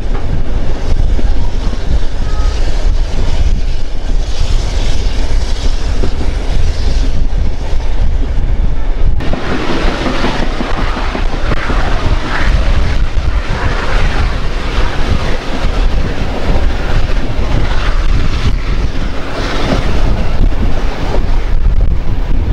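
A steam-hauled passenger train heard from an open carriage window: the steady rumble and clatter of the carriages running on the rails under heavy wind buffeting on the microphone. The sound changes abruptly about nine seconds in and turns harsher and brighter.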